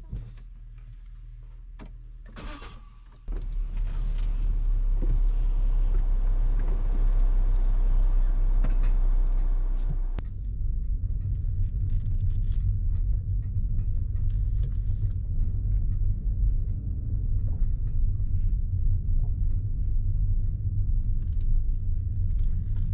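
Car driving off, with a steady low engine and road rumble. The rumble jumps up sharply about three seconds in and shifts in tone near ten seconds.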